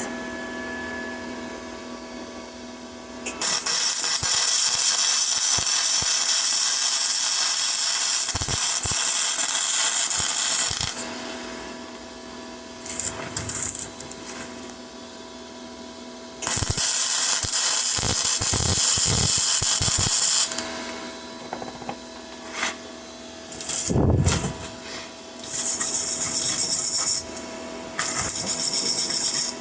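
Parkside PMSG 200 A1 flux-core wire welder arc crackling and hissing in four runs, the first and longest about seven seconds, then shorter runs of a few seconds, as a circular weld is laid down. A steady low hum carries on between the runs.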